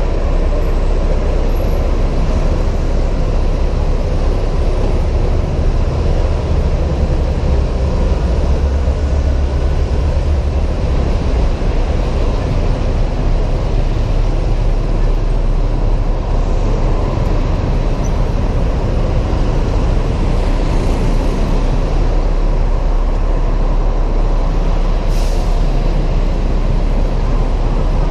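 Riding noise on a Honda PCX 125 scooter heard through a helmet camera: wind rush on the microphone over the scooter's engine and the surrounding traffic, dense and steady, with a brief sharp sound about 25 seconds in.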